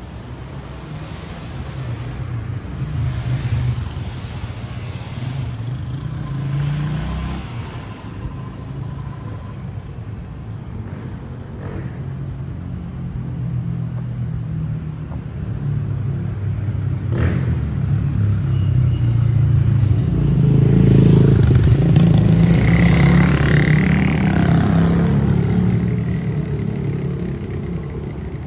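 Street traffic: motor vehicle engines running past, the loudest passing by about two-thirds of the way through, building up and then fading. Small birds chirp briefly near the start and around the middle.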